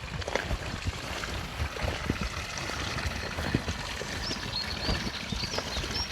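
Footsteps crunching on a wet forest track under steady rain falling through the trees, with irregular knocks and drips. Several short, high chirps come in from about four seconds in.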